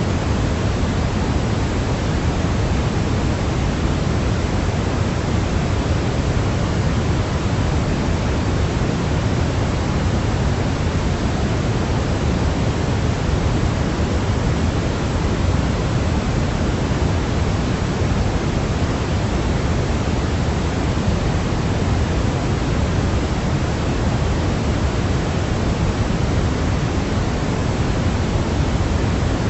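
Steady generated noise for sleep, an even, unchanging hiss heavier in the low end than the high, closer to pink noise than to pure white noise.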